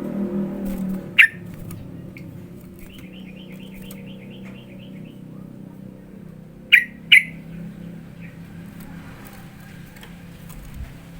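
Yellow-vented bulbul (trucukan) calling: a sharp call about a second in, a quick run of about a dozen chattering notes from about 3 to 5 seconds, then two more sharp calls in quick succession near 7 seconds.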